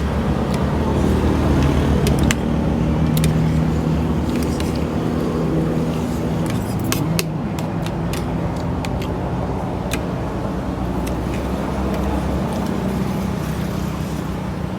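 A motor vehicle engine running close by: a steady low hum that swells around two to four seconds in and then eases, with road traffic noise behind it. Scattered sharp clicks sound throughout.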